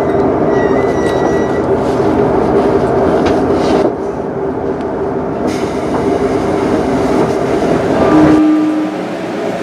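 A JR 215-series electric train rolling slowly into a station, with a steady running rumble and hum. Near the end a short steady tone sounds and the low rumble drops away as the train comes to a stop.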